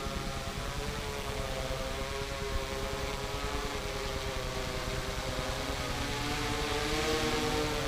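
Yuneec quadcopter's propellers humming in flight, a steady multi-tone whine that wavers in pitch and grows a little louder near the end.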